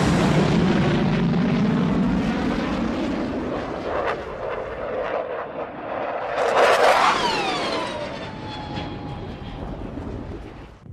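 Jet aircraft flying past: a heavy rumble, then a second loud pass about six and a half seconds in whose whine falls in pitch as it goes by, fading away near the end.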